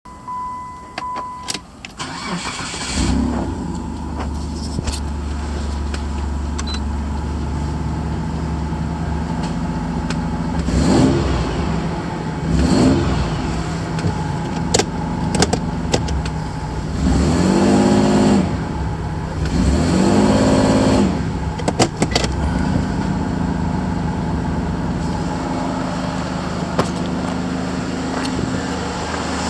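Mitsubishi Delica Space Gear's 6G72 3.0-litre V6 petrol engine cranking and catching about three seconds in after a short beep, then idling. It is revved four times: two short blips, then two longer revs, each time dropping back to idle.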